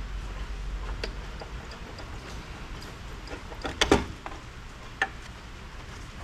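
Scattered light clicks and clinks of hand tools and hardware on an amplifier's metal chassis during disassembly, with a louder cluster of knocks just before four seconds in and one sharp knock about a second later, over a steady low hum.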